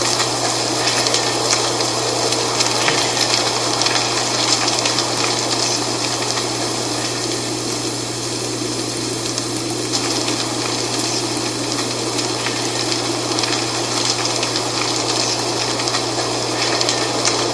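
Dry autumn leaves rustling in a steady wind: a continuous crackling hiss, with a constant low hum beneath it.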